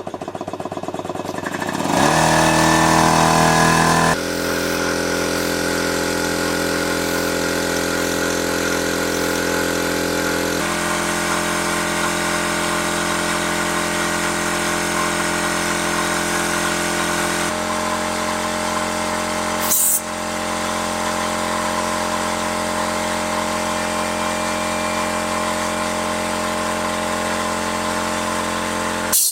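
Old tractor engine cold-starting in freezing weather: a couple of seconds of quick even cranking, then it catches about two seconds in and runs on steadily, its engine note stepping to a new speed a few times.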